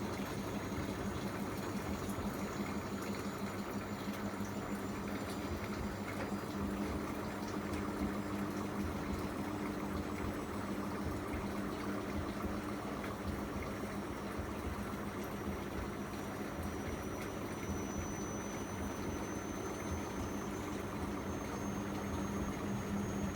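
Miele MedicWash W2585 front-loading washing machine running mid-programme: a steady hum with water noise inside the machine.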